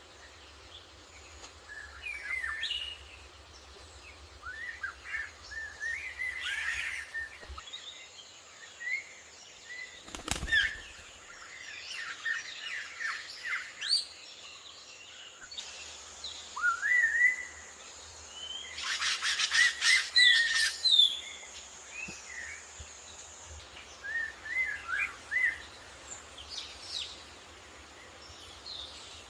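Small bird chirping in short bursts of quick, gliding notes that rise and fall, with a rapid clicking run about two-thirds of the way in. A single thump sounds about ten seconds in.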